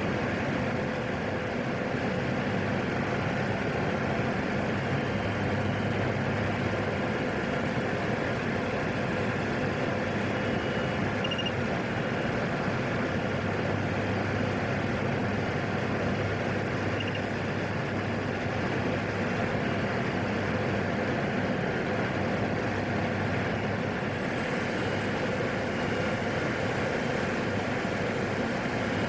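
Steady drone of a PAC 750XL's single Pratt & Whitney PT6A turboprop engine in flight, heard from inside the cockpit, with a slight shift in the hiss about three-quarters of the way through.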